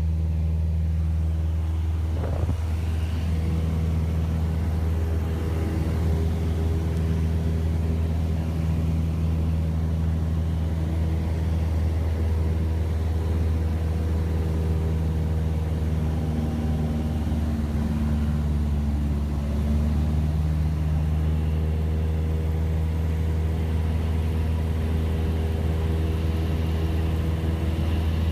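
Cessna 172S's four-cylinder Lycoming piston engine and propeller droning at a steady pitch, with a deep hum and a stack of steady overtones.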